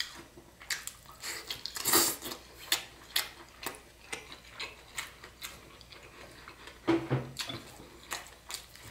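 Eating sounds: scattered light clicks and knocks of utensils against a dish, with chewing of crispy pan-fried rice noodles.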